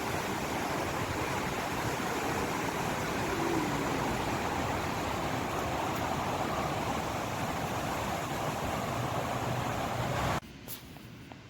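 Strong wind blowing over a handheld phone's microphone, a steady rushing noise that cuts off suddenly near the end.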